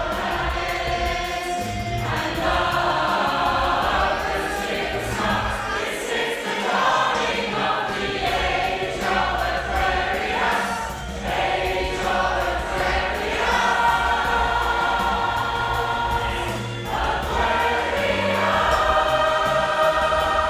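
Women's choir singing a song live in several-part harmony, the chords held and shifting without a break.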